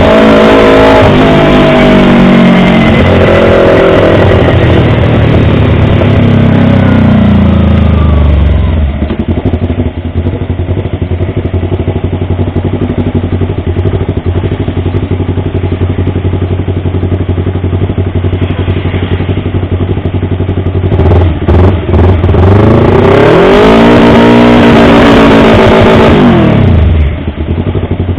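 Yamaha R25 250 cc parallel-twin engine: revs fall away to a steady idle, then, after a few quick throttle blips, it is revved up, held high for a couple of seconds and dropped back to idle near the end.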